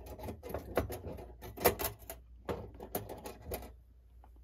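Small metal clock-movement parts (levers and wheels) clinking and tapping as they are handled and set into a cleaning parts basket: a run of irregular light clicks, the sharpest about a second and a half in.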